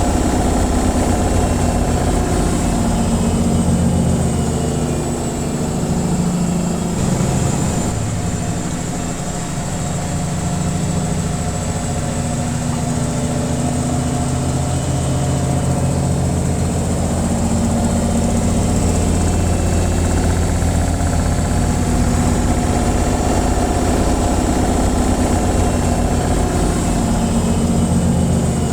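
Washing machine in its spin cycle: a steady, low machine hum with drum vibration, easing slightly about eight seconds in before settling back.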